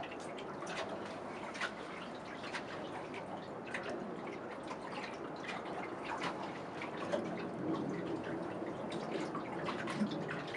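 Water sloshing and dripping around a boat, with many small irregular splashes.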